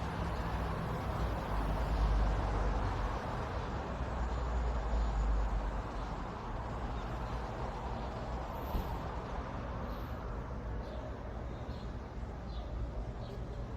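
Steady outdoor background noise: an even hiss with a low rumble that is heaviest for the first six seconds, and a couple of faint, short high chirps around the middle.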